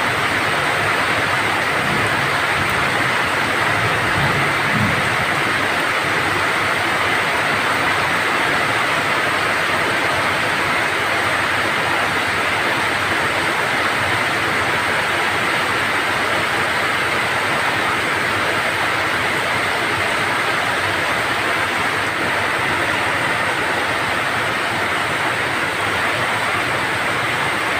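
Steady rain falling, an even hiss with no breaks, with a few faint low rumbles in the first few seconds.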